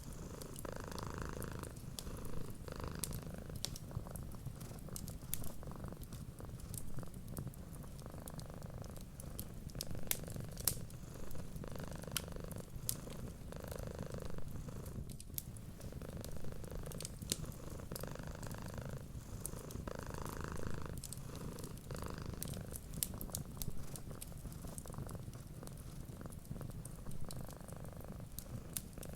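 Domestic cat purring steadily, the purr swelling and easing with each breath every couple of seconds, over a wood fire crackling with scattered sharp pops.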